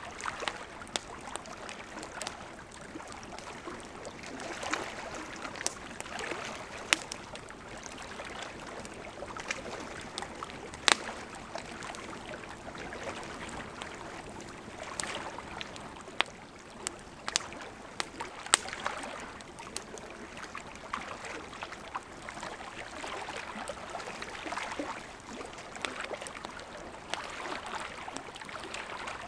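Wood fire burning, a steady hiss with frequent irregular sharp crackles and pops; the loudest pop comes about eleven seconds in.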